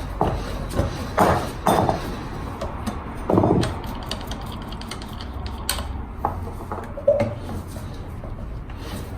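Hand tools and metal parts being handled: a scattering of clicks and knocks, a heavier knock about three and a half seconds in and a short ringing metallic clink about seven seconds in, over a low steady hum.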